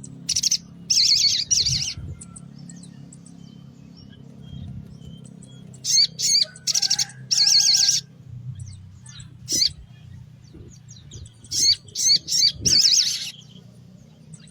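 Little spiderhunter (sogon) singing in bouts of rapid, high, chattering calls, three bouts about five seconds apart, over a faint low steady hum.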